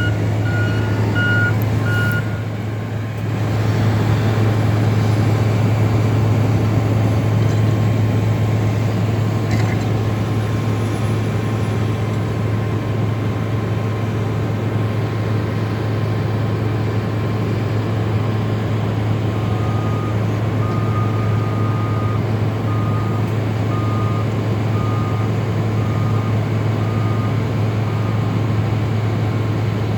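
Diesel engines of skid steers and a wheel loader running steadily while pushing snow. A reversing alarm beeps briefly at the start, and a second, lower-pitched backup alarm beeps about a dozen times in the second half.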